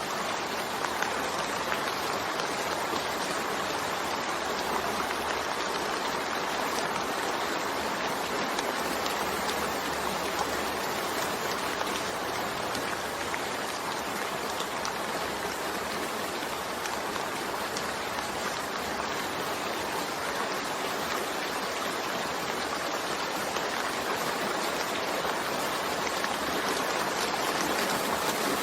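Steady rain falling, an even hiss with fine patter and no thunder.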